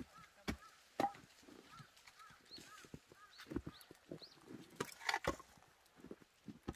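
Scattered sharp clicks and knocks, loudest about a second in and around five seconds in, over small birds chirping in short repeated notes.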